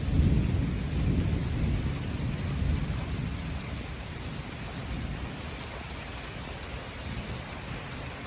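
Thunder rumbling from a nearby lightning strike, loudest at the start and slowly fading over several seconds, over a steady hiss of rain.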